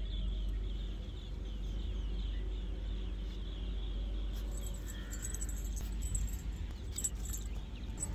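Birds chirping in quick repeated calls, clearest in the first half, over a low steady rumble.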